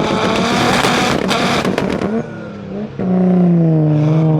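Car engine revving hard with a crackling exhaust and sharp pops for about two seconds. After a brief dip, about three seconds in, the engine is revved again and held high, its pitch sagging slightly.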